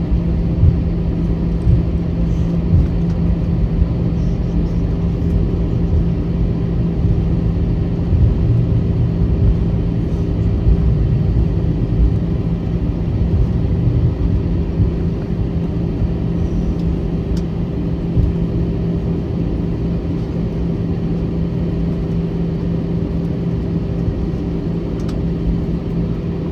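Inside the cabin of an Airbus A321-211 rolling on the ground after landing: the engines hum steadily at low power over a low rumble from the wheels, with a few light knocks.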